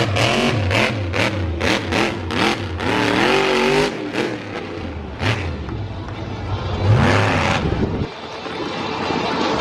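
Monster truck engine revving hard in repeated bursts, its pitch rising and falling, with sharp cracks in between; the low rumble drops away about eight seconds in.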